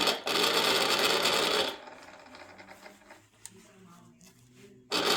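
A 1966 Necchi Lydia 3 sewing machine runs a short burst of stitching through thick fabric, starting just after the opening and stopping after about a second and a half. A short loud sound follows near the end.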